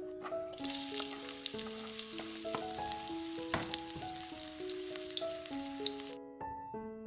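Sliced onion and chopped garlic sizzling in hot oil in a wok, starting about half a second in and cutting off suddenly near the end. Soft piano music plays underneath.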